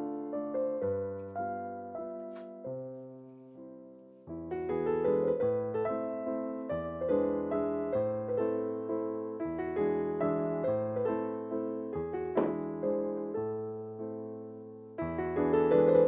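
Solo piano music, a light classical-style piece played in struck, fading notes over a moving bass line.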